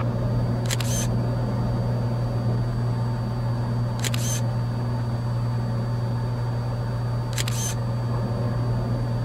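Three camera shutter clicks, about three seconds apart, over the steady drone of a Cessna 182's piston engine heard inside the cabin.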